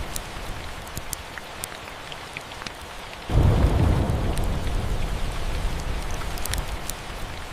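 Steady rain hiss with the sharp, scattered crackles of a wood fire. About three seconds in, a roll of thunder starts suddenly and rumbles on, slowly easing off.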